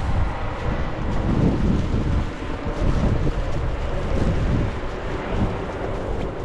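Blizzard wind buffeting the microphone in uneven gusts over a steady rush of wind.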